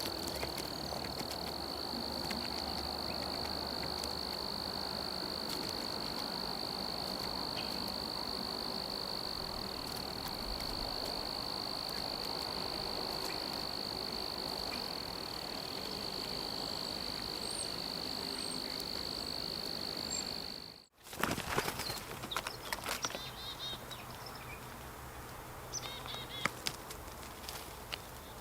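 An insect trilling: one steady, unbroken high-pitched tone over a faint outdoor hiss. About two-thirds of the way through it cuts off abruptly, and scattered clicks and a few short chirps follow.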